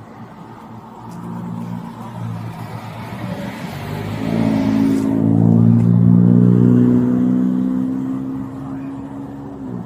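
A motor vehicle driving past close by: its engine and tyre noise build over several seconds, peak about six seconds in and then die away.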